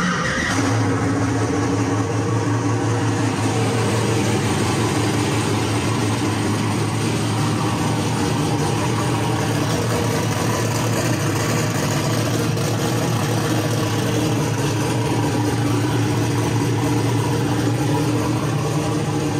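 Turbocharged GM L33 5.3-litre V8 catching and settling straight into a steady idle, echoing in the garage. It runs now that the EFI's ignition timing offset, which had kept it from starting, has been turned off.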